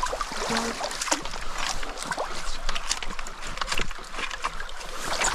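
Shallow stream water splashing and sloshing as people wade and work in it, with many irregular small knocks and clicks.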